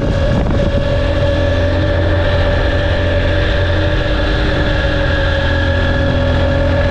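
Honda XR150's single-cylinder engine running at steady revs on the move: an even hum with a steady higher tone over it.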